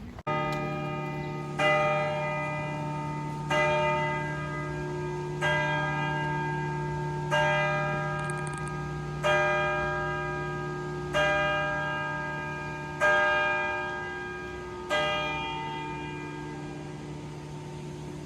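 Church bell tolling, one strike about every two seconds, about nine strikes over a steady low hum. After the last strike the ringing fades away near the end.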